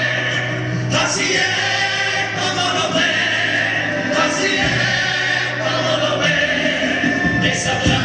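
A Cádiz carnival comparsa, an all-male choir, singing its popurrí in harmony over a steady low accompaniment, with a few sharp accents along the way.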